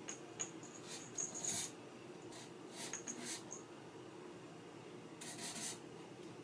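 Kitten pawing and batting a bottle puzzle toy, making short scraping and rattling sounds in three bursts.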